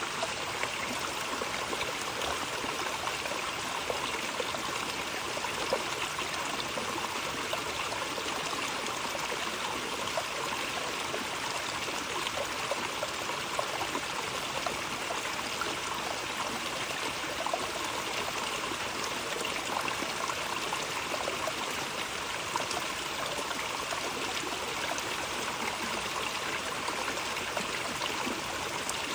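Running water, a steady flow with fine trickling and splashing that stays even throughout.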